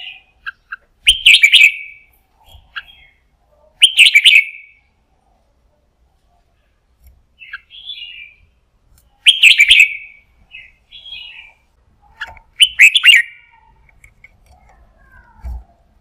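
Red-whiskered bulbul singing: four loud, rapid song phrases of about a second each, a few seconds apart, with softer short chirps between them.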